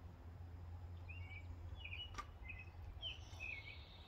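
A small bird chirping faintly, a string of short high chirps starting about a second in, over a steady low outdoor background rumble. A single sharp click sounds about two seconds in.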